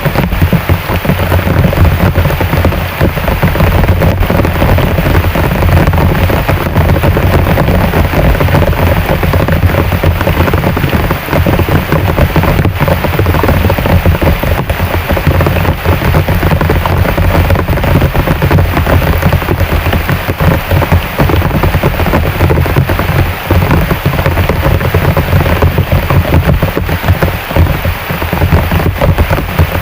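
Heavy rain falling steadily: a dense, continuous hiss of drops with no letup.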